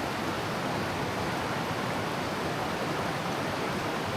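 Waterfall and creek water falling and running steadily, an even rushing noise with no separate events.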